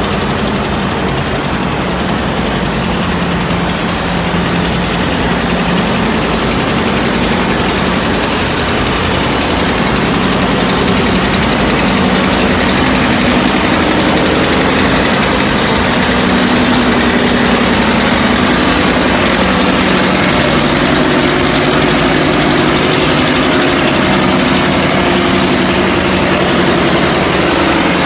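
Antique tractor engine running hard at a tractor pull, a loud, steady engine note whose pitch shifts about halfway through and grows slightly louder.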